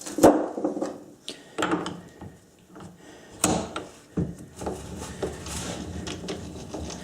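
Metal tooling and fittings being handled and adjusted at a metal lathe: several separate clunks and clicks with a short ring, then a low steady hum in the last couple of seconds.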